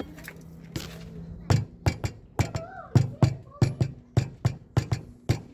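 A wheel spanner tapping repeatedly on a car's front wheel, about three sharp knocks a second, to bring out a clicking rattle in the wheel.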